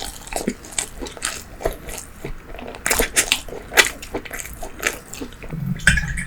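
Close-miked eating sounds: biting and chewing bread and fried pastry, a steady run of irregular crackly mouth clicks. A brief low sound comes near the end.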